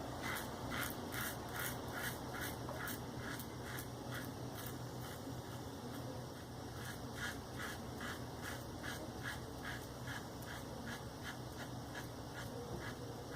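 Maggard V3A safety razor with a Shark Super Chrome blade scraping stubble from a lathered face in quick short strokes, about three to four a second, growing fainter about halfway through.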